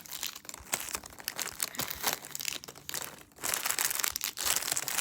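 Packaging crinkling as it is handled, in irregular crackles that grow louder in the second half.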